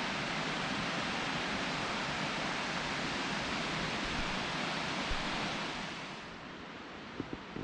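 Steady rush of flowing water from a rainforest creek; about six seconds in it drops away to a quieter hiss.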